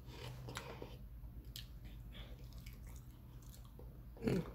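A person chewing a mouthful of fried fish close to the microphone, with soft wet clicks and squishes. A brief louder vocal sound comes near the end.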